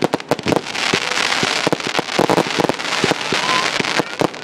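Fireworks going off in a rapid barrage: many sharp bangs and pops in quick succession, thickening into a dense crackle for a couple of seconds in the middle.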